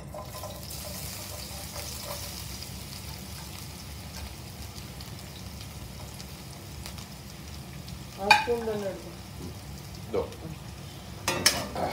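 Sliced fresh coconut sizzling as it is dropped into hot coconut oil in an iron kadai, a steady frying hiss that starts as the first pieces hit the oil. There is a brief louder sound about eight seconds in.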